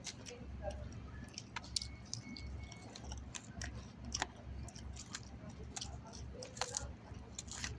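A person chewing grilled chicken salad with pita bread, with scattered short, sharp clicks.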